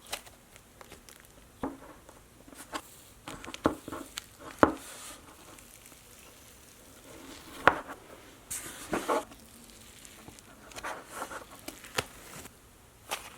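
Plastic slime containers being handled: scattered sharp clicks and taps with short bursts of crinkling and rustling, the sharpest clicks about four and a half and seven and a half seconds in.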